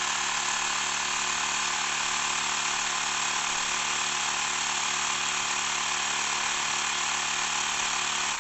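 Xiaomi Mi Portable Electric Air Compressor running steadily while inflating a two-wheeler's tyre, with a steady hum and hiss. It stops abruptly at the very end, shutting itself off automatically on reaching the set pressure of 20 psi.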